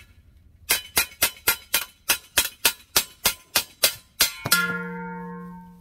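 A quick run of evenly spaced sharp ticks, about four a second for nearly four seconds, ending in one louder strike followed by a ringing tone that fades.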